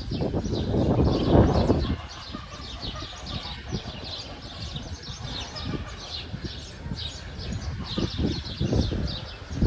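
Many small birds chirping together, a dense run of short high chirps overlapping without pause. A loud low rumbling noise sits under them for the first two seconds, then drops away.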